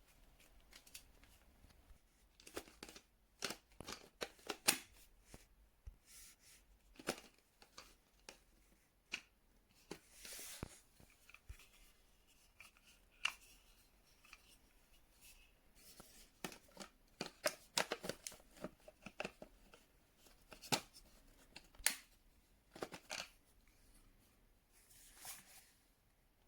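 Irregular handling noises: scattered sharp clicks, taps and short rustles, with a brief swish about ten seconds in. No motor is running.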